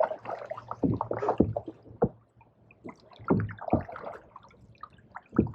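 Canoe paddles dipping and stroking through pond water, with splashing, dripping and a few sharp knocks.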